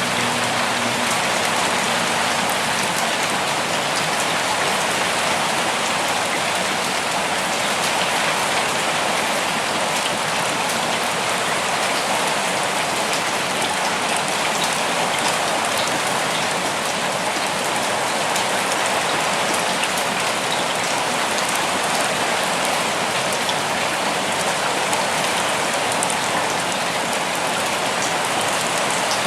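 Steady rain falling in a forest, an even hiss with many small drops pattering on surfaces.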